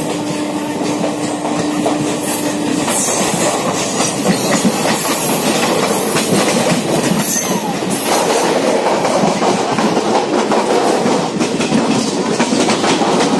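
Passenger-train coaches rushing past close by on the adjacent track, heard from another moving train: a loud steady rumble and rush with the clickety-clack of wheels over rail joints. A steady hum stops about three seconds in.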